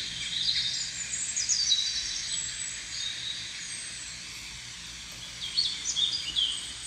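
Small birds chirping and twittering in quick, high, gliding calls over a steady low hum, the chirps busiest at the start and again near the end.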